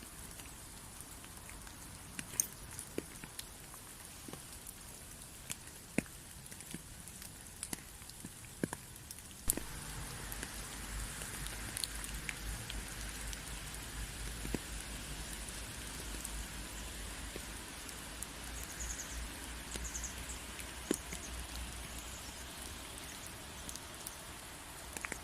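Rain falling, with scattered single drops ticking sharply through a steady hiss. About ten seconds in it turns heavier and louder, with a low rumble underneath.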